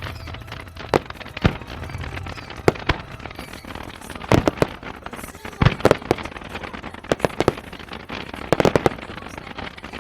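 Fireworks shells bursting: sharp bangs at uneven intervals, with quick clusters of two or three reports about four, six, seven and nine seconds in.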